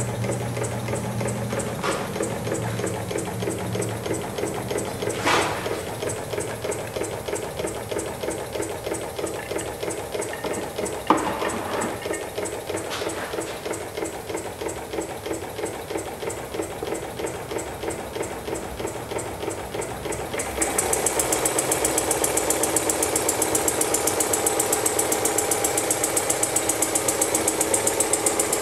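Homemade VATOC model engine running with a steady, rapid beat, with a couple of sharp knocks early on. About two-thirds of the way through it gets louder and more rattling.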